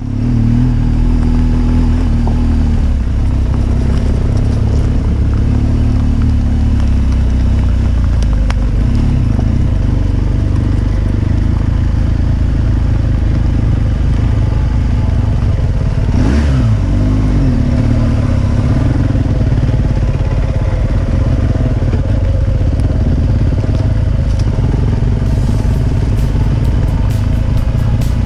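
Motorcycle riding along the road: steady engine running with wind and road noise, and a brief dip and rise in pitch a little past halfway.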